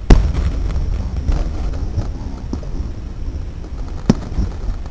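Fireworks shells bursting: a loud bang just after the start and another about four seconds in, with a couple of smaller pops between, over a steady low rumble.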